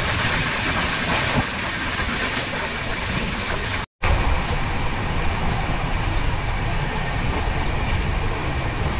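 Moving passenger train heard from inside a non-AC coach: a steady running noise of deep rumble and rushing hiss from the wheels on the track. The sound drops out for an instant about four seconds in, then carries on.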